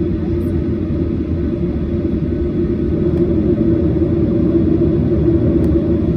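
Steady low rumble of cabin noise inside a Boeing 737-800, from its CFM56 jet engines and airframe, growing slightly louder about halfway through.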